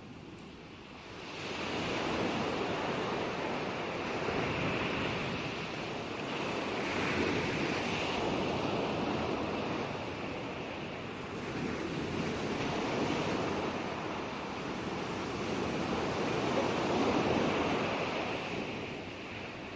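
Ocean waves breaking and washing on a shore, the surf rising in slow swells of a few seconds each after a quiet first second.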